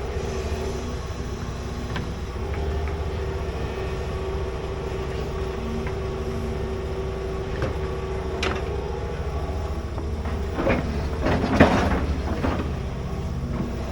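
Large hydraulic excavator's diesel engine running steadily while digging, with metal clanks and scraping; a sharp clank about eight seconds in and a louder burst of clanking and scraping around eleven to twelve seconds in.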